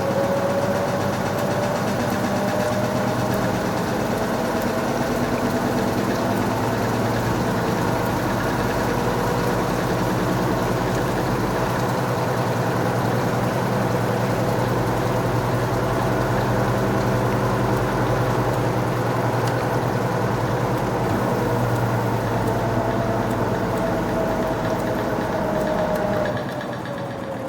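LG washing machine spinning: the drum motor's whine rises as it speeds up, holds steady at spin speed, then falls as the drum slows near the end. The spin is one the owner calls hard and unbalanced.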